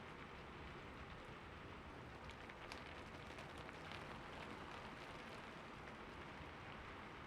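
Light rain falling steadily, a soft even hiss with scattered individual drops ticking through it.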